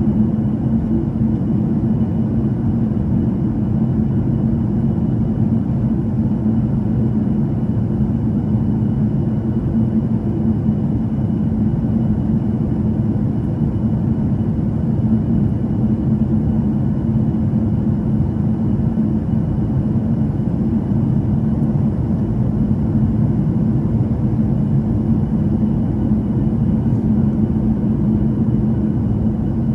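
Cabin noise of a Boeing 737-800 on final approach: a steady low rumble of its CFM56 turbofan engines and the airflow around the fuselage, with a faint thin whine above it.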